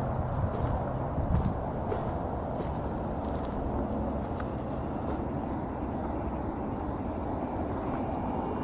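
Motorcycle engine running steadily, with a low rumble. Over it is a high buzz that pulses about twice a second.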